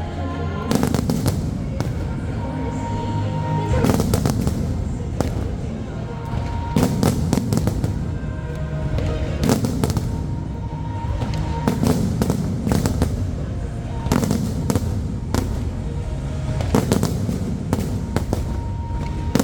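Aerial fireworks bursting in repeated clusters of sharp bangs and crackles, with music playing underneath.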